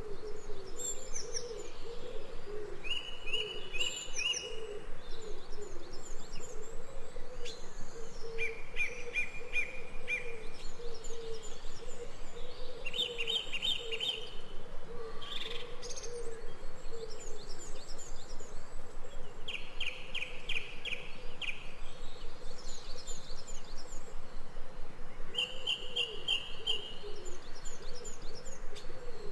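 Forest birdsong: one bird repeats a short, fast trilled phrase about every five to six seconds, with fainter higher chirps between, over a steady low warbling background.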